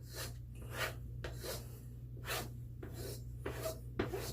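Gold Dollar 208 straight razor being stropped: a short swish on each pass along the strop, in a steady back-and-forth rhythm of about one or two strokes a second.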